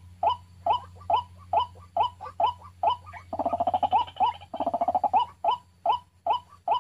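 White-breasted waterhen calls: a short rising note repeated about two to three times a second, breaking into a quicker run of notes in the middle. A steady low hum runs underneath.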